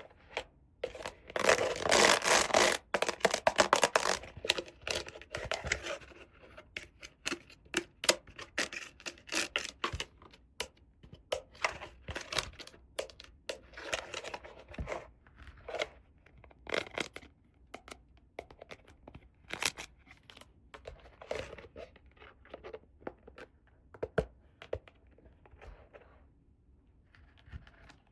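Packaging being torn and scratched open by hand for a toy unboxing: irregular tearing and rustling with many small sharp clicks, busiest and loudest in the first six seconds, then sparser handling.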